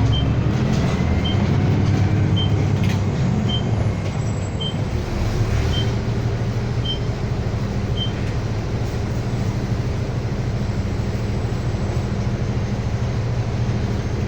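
Inside a city bus on the move: steady engine and road noise, with a short high beep repeating about once a second that stops about eight seconds in.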